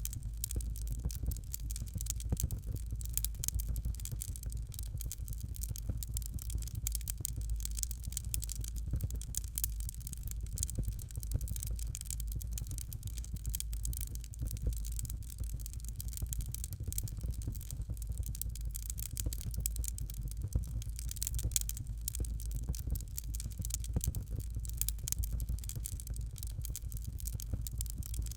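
Fire crackling in a fireplace: a steady stream of small crackles and pops over a low rumble.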